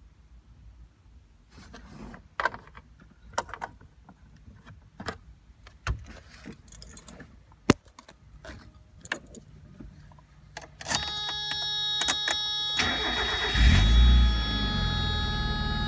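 A 1990 Mazda Miata's 1.6-litre four-cylinder engine being cold-started. Scattered clicks and knocks come first. About eleven seconds in the starter cranks for roughly two seconds, then the engine catches with a brief loud flare of revs and settles into a steady idle.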